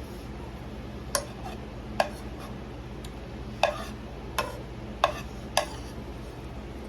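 Eating utensil clicking against a dish of red beans and rice as food is scooped up: six short, sharp clicks at irregular intervals.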